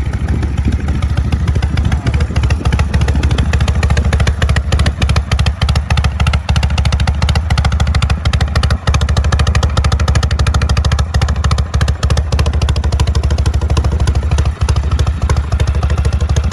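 1973 Norton Commando 850's air-cooled parallel-twin engine running at a steady idle, warming up after a cold start.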